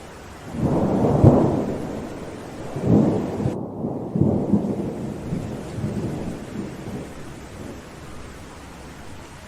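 Thunder rolling over steady rain: a rumble swells about half a second in, surges again around three seconds, and dies away over the next few seconds while the rain hiss carries on.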